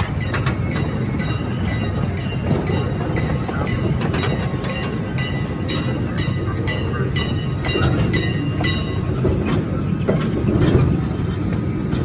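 Zoo train rolling along its track: a steady rumble with a regular clickety-clack of the wheels over rail joints, about two to three clicks a second, which fades out near the end.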